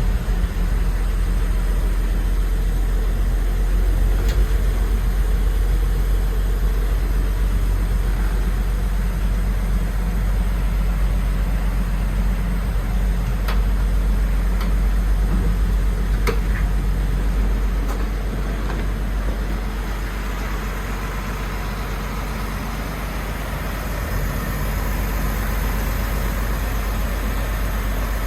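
Willys FC-170's flathead inline-six engine idling steadily just after a cold start, choke pushed back in and the idle mellowed out.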